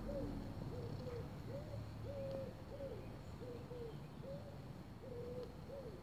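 A bird calling in a steady run of short, low notes at one pitch, some held flat and some rising and falling, about one and a half notes a second.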